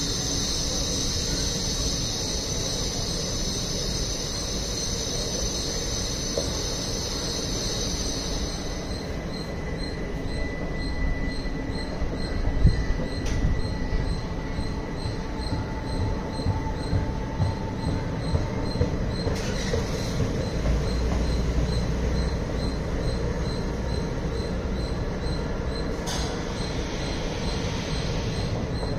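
Indian Railways sleeper coaches rolling slowly past: a steady low rumble of wheels on rail with occasional knocks. A high steady hiss cuts off about a third of the way in.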